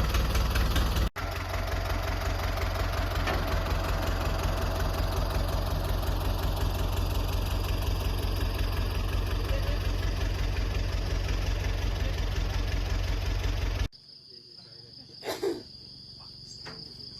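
An engine running steadily with an even pulse, broken briefly about a second in and cut off abruptly near the end, leaving a quieter background of insects with a short sound just after.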